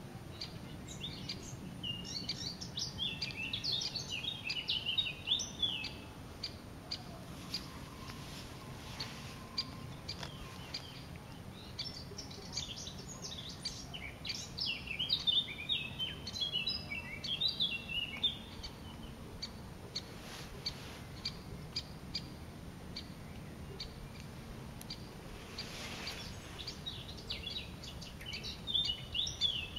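Bird song: three spells of rapid, high chirping notes, each several seconds long, about a second in, in the middle and near the end, with short sharp ticks scattered between them.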